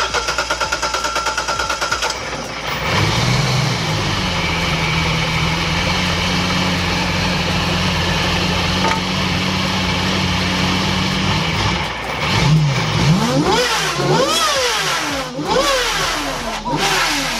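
Supercharged car engine cranked on the starter, catching about three seconds in with a brief rise in revs, then idling steadily. From about twelve seconds in it is revved up and down several times in quick blips.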